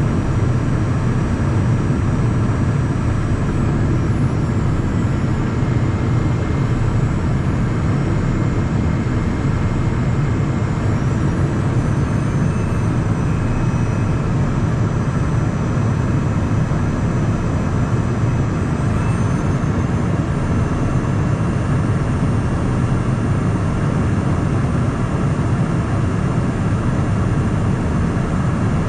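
Cabin noise of a Cessna Citation Mustang business jet in flight: a steady rush of airflow and the twin Pratt & Whitney PW615F turbofans. Faint high whines from the engines shift a little in pitch partway through.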